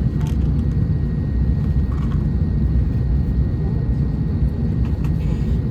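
Steady low rumble of an Airbus A321neo's cabin noise, the aircraft's running systems heard from a passenger seat.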